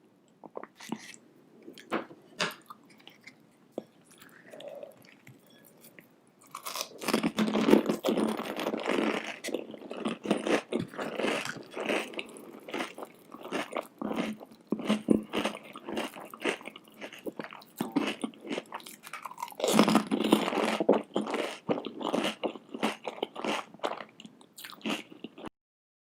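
Close-miked eating of crunchy food. Sparse small mouth clicks and bites come first, then from about seven seconds in a long run of dense, loud crunching and chewing. The crunching surges again about twenty seconds in and cuts off abruptly just before the end.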